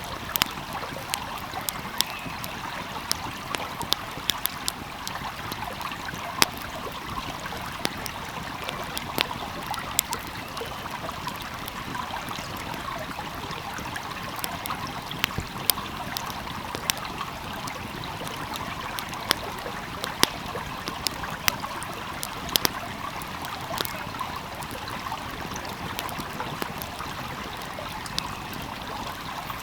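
Small stream flowing steadily, with a wood fire crackling over it in frequent sharp, irregular pops.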